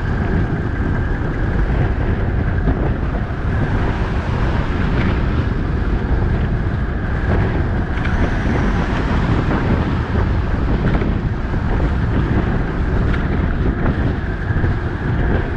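Wind buffeting the microphone of a camera on a moving bicycle, a loud steady rumble, with highway traffic noise underneath.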